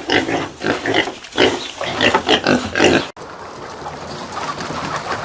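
Pigs grunting in a quick run of short calls; about three seconds in the sound cuts abruptly to a steady hiss.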